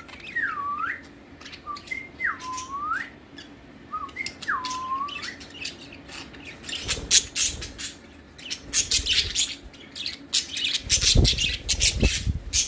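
A flock of pet budgerigars chattering: three swooping whistles that dip and rise back up in the first five seconds, then a dense run of short, sharp chirps and squawks. Some low bumps sound along with the chirping near the end.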